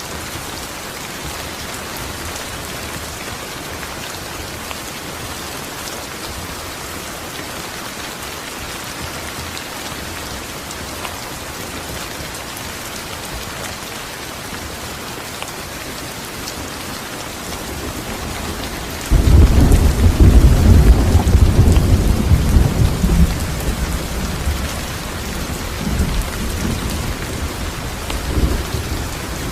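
Steady heavy rain falling, with a clap of thunder breaking in suddenly about two-thirds of the way through and rumbling away in smaller rolls.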